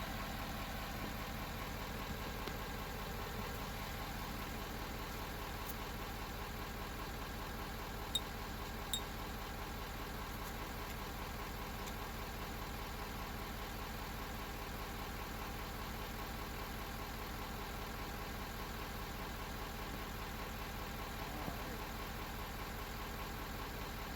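Engine idling steadily, with two light clicks about eight and nine seconds in.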